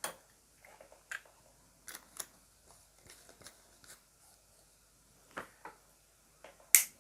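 Scattered light clicks and taps from handling the repaired LED bulb as it is fitted and plugged back into the mains, with one sharper click near the end.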